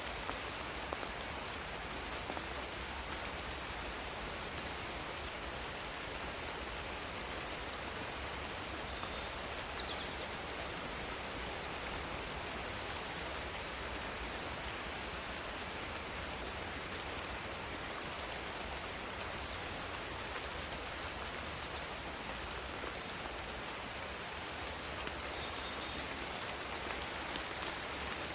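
Steady rain falling, with a continuous high insect trill from crickets and short high chirps repeating every second or two.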